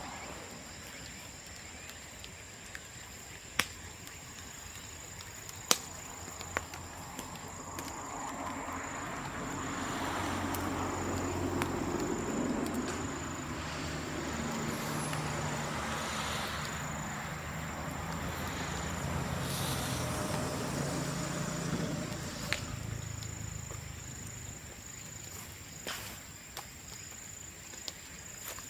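Burning bamboo in an open bonfire crackling, with a few sharp pops as bamboo bursts in the flames. Through the middle a low engine hum swells and fades away, and a thin steady high tone runs underneath.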